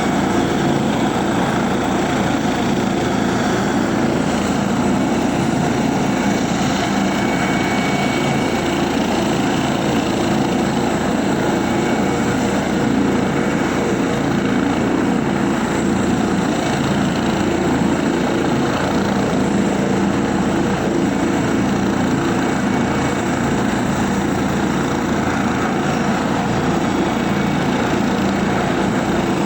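Helicopter engine and rotors running steadily, a loud even drone with no change in pitch or level.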